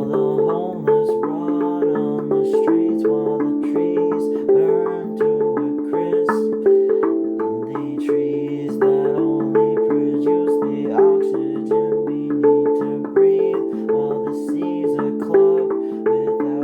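Handpan played in a continuous rhythmic pattern: ringing melodic notes over low bass notes, with quick sharp taps between them.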